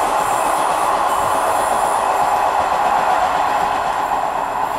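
Class 158 diesel multiple unit running away along the track, a steady noise of engine and wheels on rail that slowly fades toward the end.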